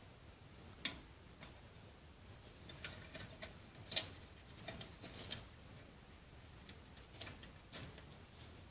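Faint, irregular small clicks and taps of the small parts of a homemade Stirling engine being handled as the piston is fitted; the loudest tap comes about four seconds in.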